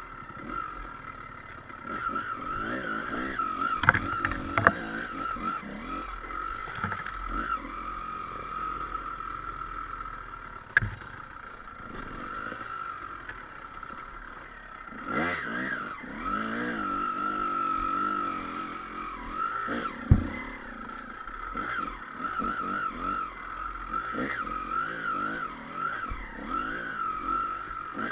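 Enduro dirt bike engine running and revving up and down, with a few sharp knocks scattered through it.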